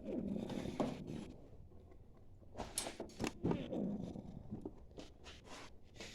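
Scattered clicks and knocks of hand tools and metal parts being handled while a carburetor is fitted to an engine.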